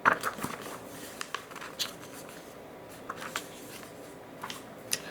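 Paper rustling and a few light clicks as a picture book's page is handled and turned, soft and scattered.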